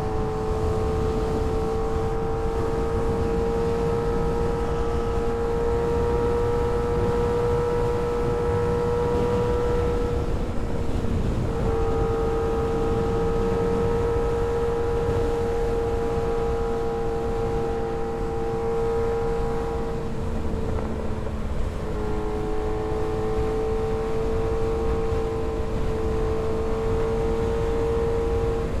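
Kawasaki ZX-6R 636 inline-four engine running at a steady pitch while riding, creeping slowly higher, with brief dips in the tone about 10 and 21 seconds in. A constant wind rush runs underneath.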